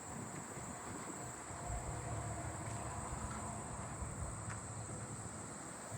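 Steady, high-pitched insect chorus of agile meadow katydids and fall field crickets singing continuously.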